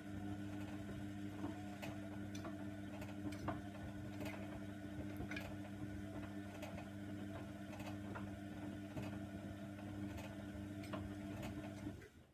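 Hoover Nextra washer dryer's motor turning the drum during the wash: a steady hum with irregular light clicks and taps from the load tumbling, cutting off near the end as the drum stops.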